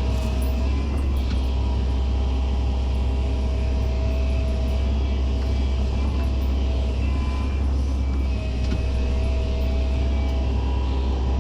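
Excavator's diesel engine running steadily under work, a heavy low rumble with a thin whine that comes and goes.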